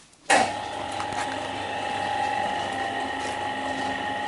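A car lift's electric pump motor switches on abruptly and runs steadily with a constant whine.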